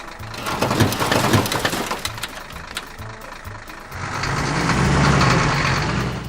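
Cartoon vehicle sound effects: a spell of irregular clattering knocks, then about four seconds in a vehicle engine running steadily, which cuts off suddenly at the end.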